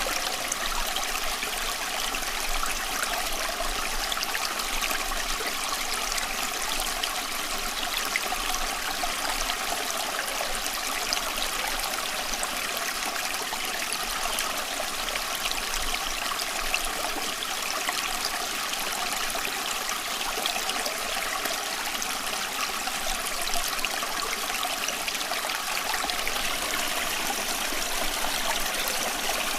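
Running water, a steady trickling and splashing flow that holds even throughout.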